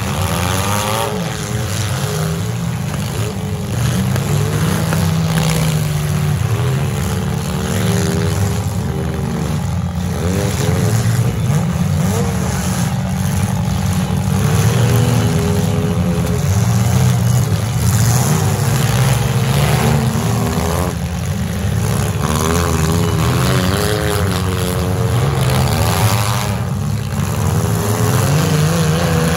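Several compact-car engines revving and running at once in a demolition derby, their pitch rising and falling over and over as the cars drive and ram one another.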